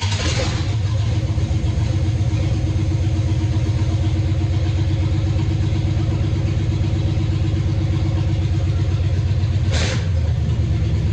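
Stock Chevy 305 small-block V8 with open headers and no exhaust starting up and running loud and uneven, not firing on all eight cylinders. It has two brief louder surges near the end.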